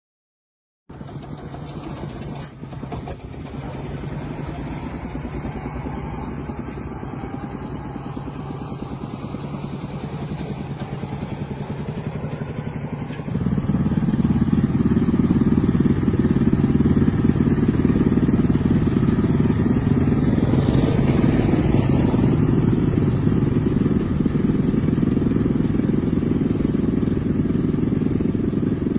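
Repaired tractor's engine running steadily, starting a second in. About halfway through it suddenly grows louder and heavier and stays so, as when the throttle is opened or the engine takes up load.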